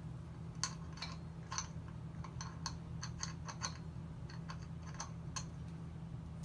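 Light, irregular clicks and taps of small metal chainsaw parts being handled and fitted, over a steady low hum.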